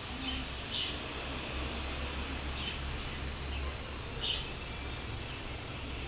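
A small bird gives a few short, high chirps, three or four of them scattered across the few seconds. Under them runs a steady low hum and faint outdoor background noise.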